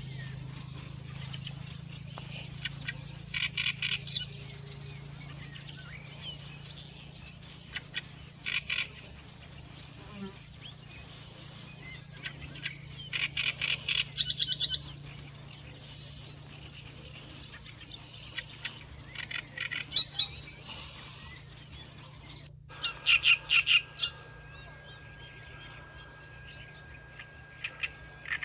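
Insect buzzing in a steady high trill, with small birds chirping in short rapid bursts every few seconds. About three quarters of the way through, the insect sound cuts off abruptly; birds chirp on over a steady, lower, thin tone.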